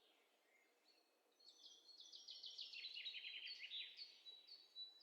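A bird singing faintly in the background: a rapid run of short high chirps that starts about a second and a half in and steps down in pitch.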